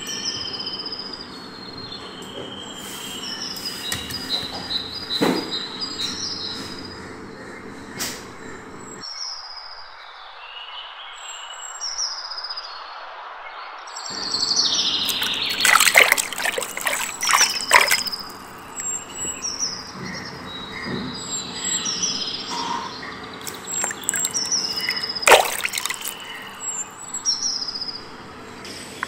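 Birds chirping, short high calls repeating every second or two. A run of sharp, close noises comes about halfway through and one more near the end.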